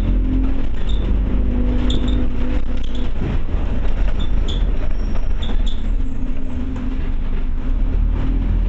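Scania OmniCity bus heard from inside while under way: a steady low diesel rumble with a pitched engine hum that fades about three seconds in, and small rattles and clicks from the bodywork.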